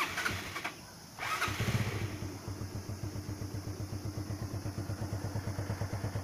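Motorcycle engine being started: a short burst of starting noise, then the engine catches about a second and a half in. It settles into a steady, pulsing idle, running to charge a flat car battery through wires clipped to the motorcycle's battery.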